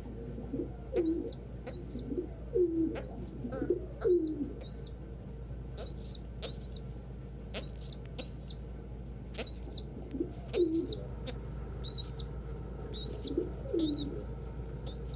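Domestic pigeons cooing, several low falling coos in the first few seconds and a couple more later, over a steady run of high, thin cheeps that often come in pairs.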